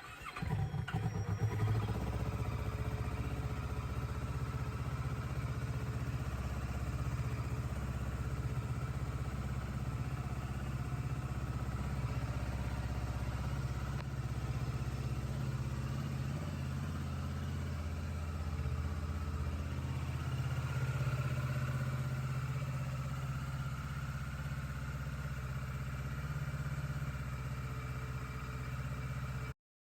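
Kawasaki ER-6N's 649cc parallel-twin engine catching and settling into a steady idle. It cuts off suddenly near the end.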